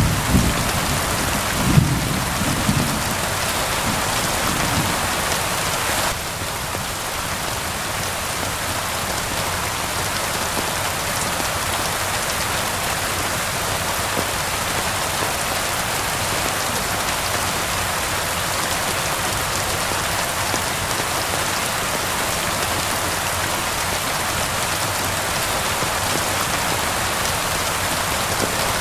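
Steady rain falling, with a low rumble of thunder dying away in the first few seconds.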